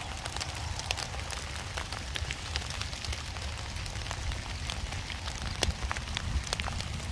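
Rain falling on a waterlogged vegetable garden: a steady hiss with many individual drops ticking sharply, over a low rumble.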